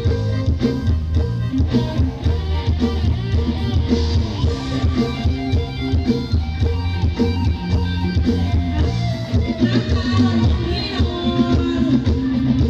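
Mor lam band music: a plucked guitar lead over drum kit and heavy bass, with a steady beat.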